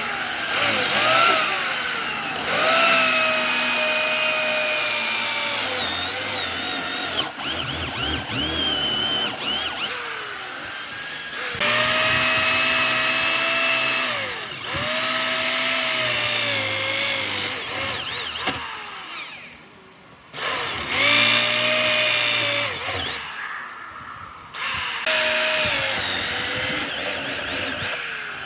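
Handheld electric power tool running in about five bursts with short pauses, its motor whine dipping in pitch and recovering as it bears on the work.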